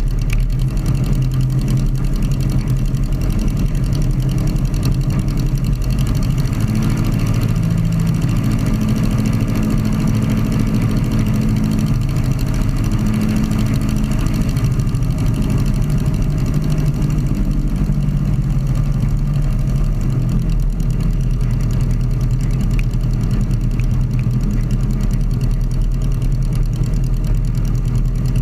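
Sonerai's Volkswagen-based aircraft engine running steadily during break-in, its drone wavering slightly in pitch.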